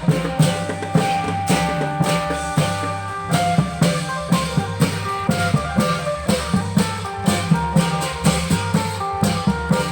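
Klong yao long-drum band music: drums playing a steady beat under a plucked-string melody and bass.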